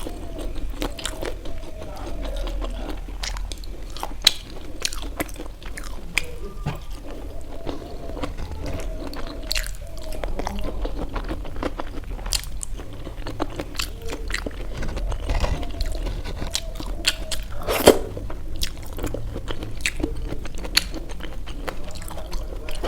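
A person chewing and biting into momo dumplings close to the microphone: continual wet mouth clicks and chewing, with a sharp click about 4 seconds in and a louder one about 18 seconds in.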